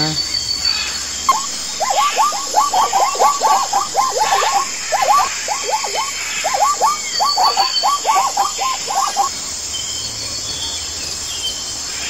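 Zebra calling: a long run of short, yelping barks, about four a second with a couple of brief pauses, lasting some eight seconds. A steady outdoor background with a few faint high chirps runs underneath.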